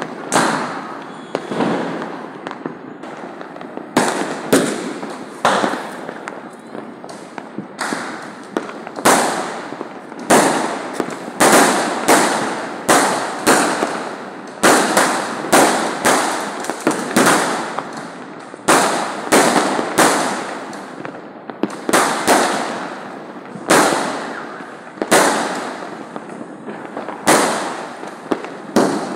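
Diwali fireworks and firecrackers going off across the city, a near-continuous string of sharp bangs, one or two a second, each trailing off in an echo.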